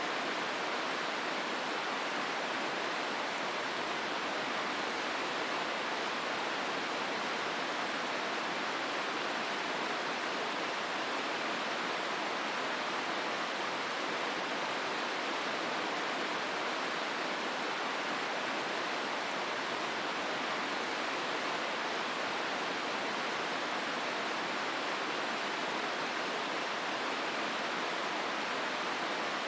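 Hozu River water rushing through the gorge: a steady, even roar of flowing water with no breaks.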